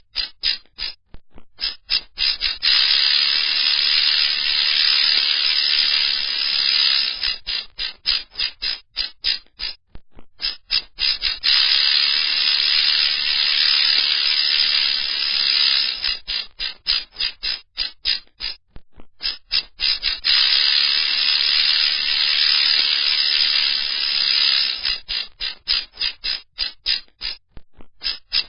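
Rattlesnake rattling: a dry, continuous buzz lasting several seconds, broken by stretches of quick separate rattles, with the pattern repeating about three times.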